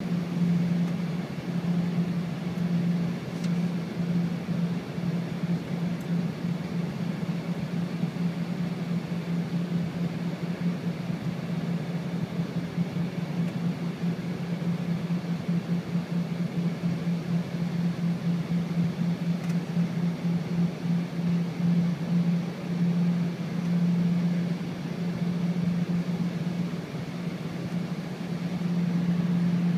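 Cabin noise inside an Embraer ERJ 135 regional jet: a steady low drone with a rushing hiss over it.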